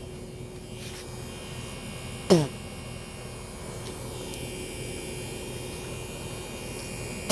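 Washing machine running with a steady motor hum, and one short sharp cry falling in pitch about two seconds in.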